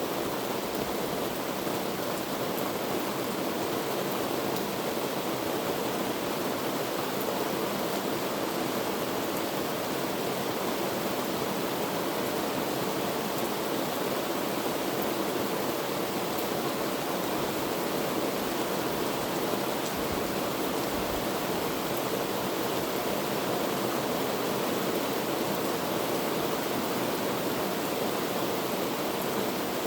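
Heavy rain falling as a steady, even downpour with no breaks or changes in strength.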